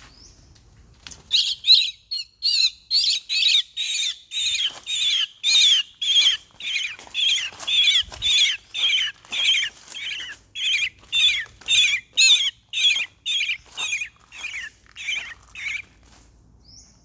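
A young bird fallen from its nest calling over and over: loud, high chirps at about three a second, each dropping slightly in pitch. The calls start about a second in and stop shortly before the end.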